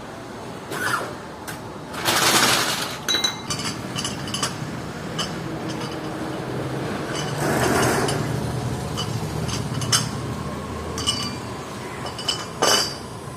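Tyre repair tools clinking and knocking, with many short sharp metallic clicks. Two longer rushes of noise come in, one about two seconds in and one around the middle.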